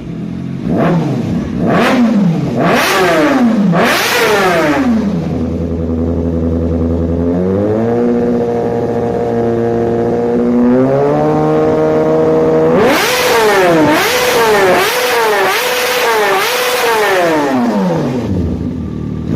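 High-powered motorcycle engine revving: several sharp blips that rise and fall, then held at a steady speed that steps up twice, then a quick run of revs before it drops back near the end.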